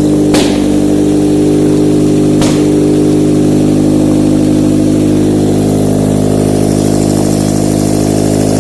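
Mazda LF-VDS 2.0-litre four-cylinder petrol engine running steadily on a test stand, at an even speed. Two short sharp clicks stand out, about half a second and two and a half seconds in.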